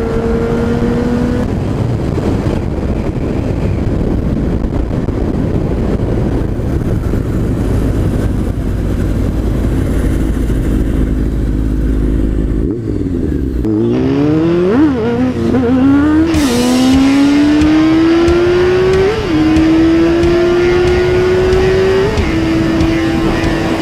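Honda CB600F Hornet inline-four engine under way, over heavy wind noise on the microphone. About 13 seconds in it revs hard through several quick upshifts, the pitch sweeping up and dropping back each time, then pulls steadily higher with two more shifts near the end.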